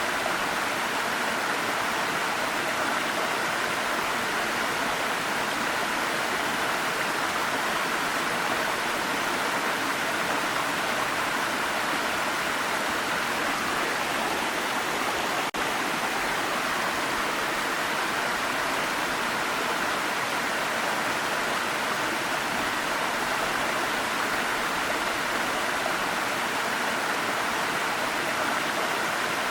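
Waterfall: a steady, even rush of falling water, with a momentary dip in level about halfway through.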